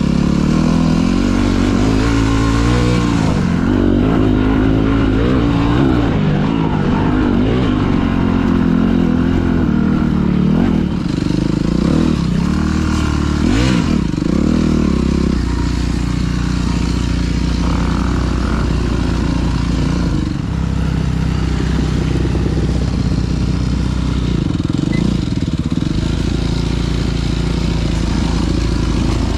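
Dirt bike engine running as it is ridden on a trail, its pitch rising and falling with the throttle over the first half, then holding steadier.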